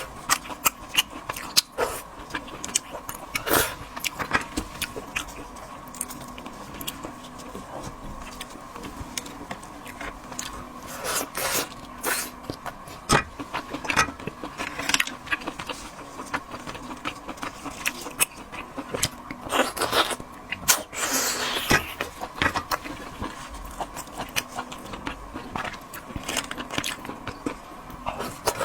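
Crab leg shell being cracked and pulled apart by hand: irregular sharp cracks, crunches and scraping, with a few longer scrapes.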